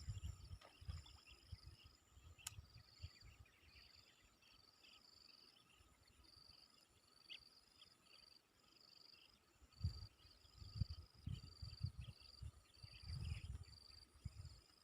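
Faint insect chorus: a high, pulsing trill that repeats in short regular beats, with low rumbles and thumps on the microphone about ten seconds in.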